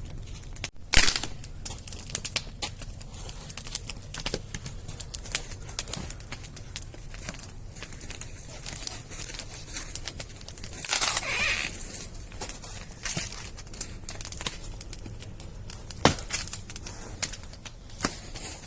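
Wood fire crackling, with scattered sharp pops, the loudest about a second in, and a louder hissing rush lasting about a second just past the middle.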